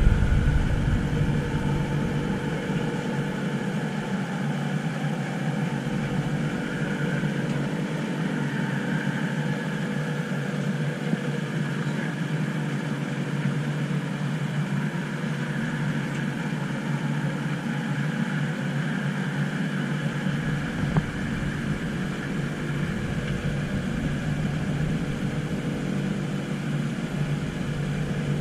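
Steady running noise inside a driverless light-rail train travelling along an elevated track, with a constant motor hum and a faint wavering whine.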